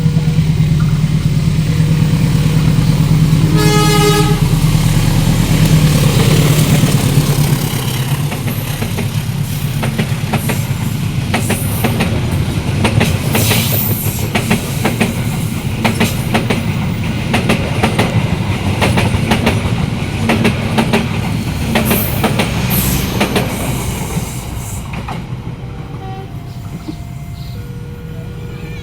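Passenger train passing close by: the diesel locomotive's heavy engine hum, a short horn blast about four seconds in, then the carriages' wheels clacking rhythmically over the rail joints, fading off near the end.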